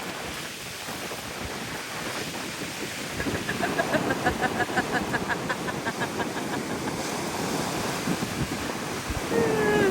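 Sea waves breaking on the shore with wind buffeting the microphone, a steady rushing noise. In the middle, a faint rapid series of short high pips sounds over it for a few seconds.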